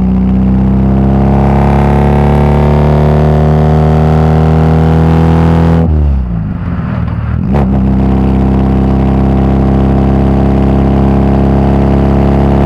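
VW Gol G2's AP four-cylinder engine through a straight-through exhaust, pulling in gear with its note rising. About six seconds in the revs drop for a gear change, then it pulls again at a steadier, slowly climbing note.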